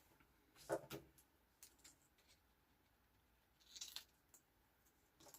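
Scissors faintly cutting washi tape and paper: a couple of sharp snips about a second in and a brief rustle about four seconds in.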